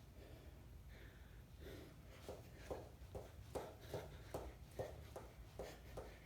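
Faint, quick, rhythmic footfalls of a person exercising, about two to three a second, starting about two seconds in.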